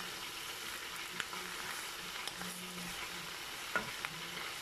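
Spinach and tuna frying gently in a metal wok while a wooden spatula stirs them: a steady soft sizzle with scattered scrapes and taps of the spatula against the pan, one sharper knock near the end.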